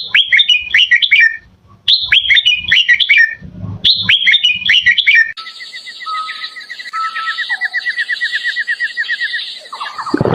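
Red-whiskered bulbul singing: three loud, quick phrases of short falling whistled notes, each about a second and a half long, followed by a quieter rapid trill that carries on steadily.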